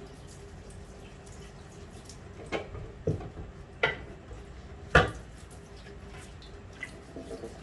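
Four sharp knocks and clatters of kitchen things being handled, the last the loudest, with faint dripping water between them.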